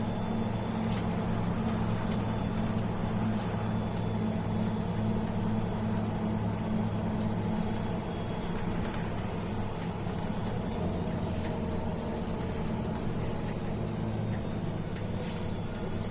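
Inside a MAN A21 city bus under way: the diesel engine drones steadily with light rattles and clicks from the cabin, and the engine note drops about halfway through.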